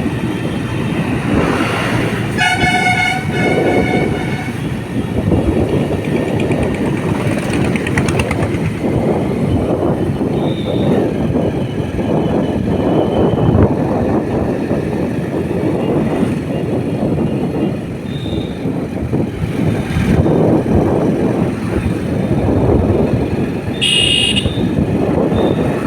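Steady rush of riding noise from a moving motorbike, with a vehicle horn honking for about a second and a half near the start and a short, higher-pitched horn toot near the end.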